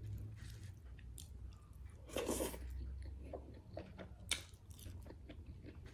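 Close-up chewing and biting of food, with wet clicks and crunches; a louder crunch comes about two seconds in and a sharp click a little after four seconds.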